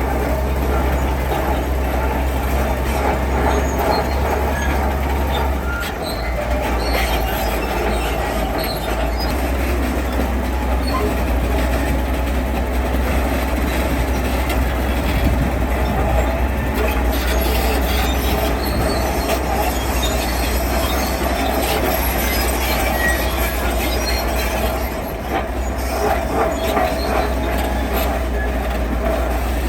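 Diesel-engined tracked construction machine running steadily under load, its steel tracks squealing and clanking.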